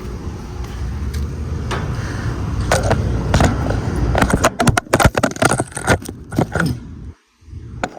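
Steady low whooshing hum of a running outdoor air-conditioner condenser unit. In the second half a run of clicks and rattles joins it, and the sound cuts out briefly near the end.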